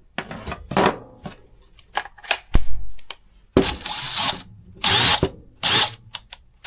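Craftsman 20V RP brushless cordless drill/driver motor spinning with no load in several short trigger pulls, the longest nearly a second long, with sharp clicks between them.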